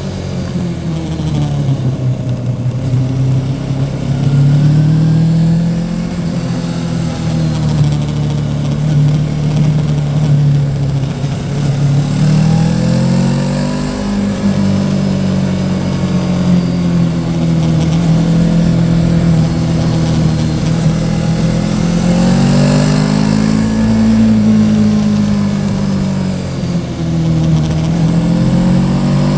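Yamaha Tracer 700's parallel-twin engine under way, its note repeatedly climbing and falling as the bike accelerates and eases off.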